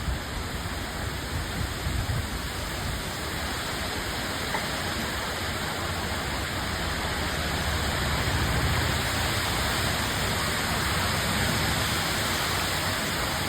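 Heavy rain falling steadily, an even hiss of water with some low rumbling swells.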